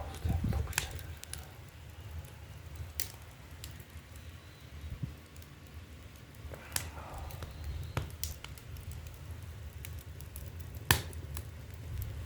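Wood fire burning in an ondol firebox, crackling with scattered sharp pops over a low rumble; the loudest pop comes near the end.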